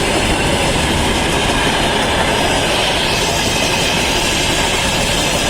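Freight train wagons rolling past at speed: a loud, steady rumble of steel wheels on the rails.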